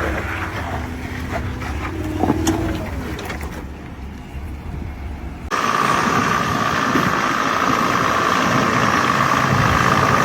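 Off-road 4x4 vehicle engines: a low rumble with a few knocks that fades away, then an abrupt switch about five and a half seconds in to a louder, steady engine sound carrying a constant whine.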